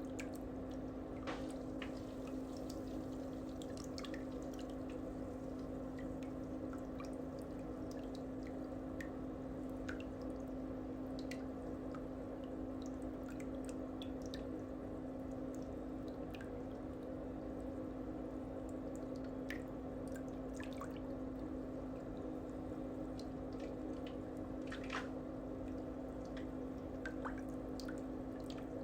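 A steady low hum holding one even pitch, with scattered faint light clicks over it.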